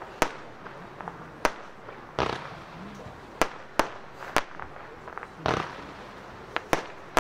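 Consumer F2 fireworks going off: about eight sharp bangs at irregular intervals, with two longer, duller bursts about two seconds in and about five and a half seconds in.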